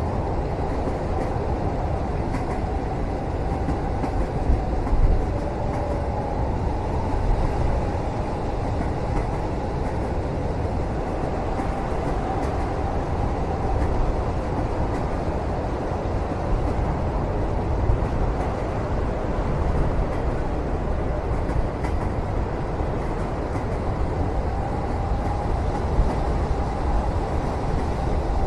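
Steady rumble of a moving train heard from inside a passenger cabin, with faint wavering whines from the wheels and a few light knocks.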